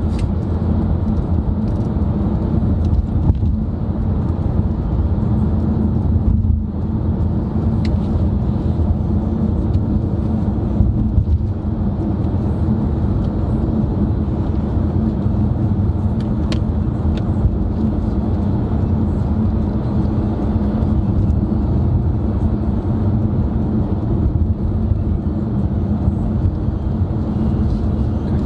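Steady road and engine noise of a car driving, heard from inside the cabin: a low, even rumble.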